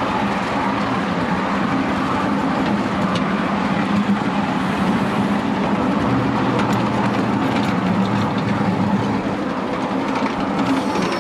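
Miniature railway train running along its track: a steady rumble with a low hum and occasional light clicks.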